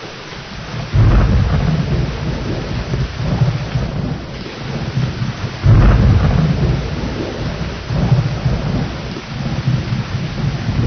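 Thunderstorm: steady heavy rain with rolling thunder, two rumbles that start suddenly, one about a second in and a louder one near the middle, each dying away over a few seconds.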